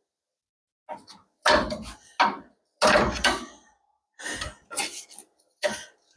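A run of heavy metal clunks and knocks, about eight at irregular spacing with short pauses between, from working on a pickup truck's front suspension.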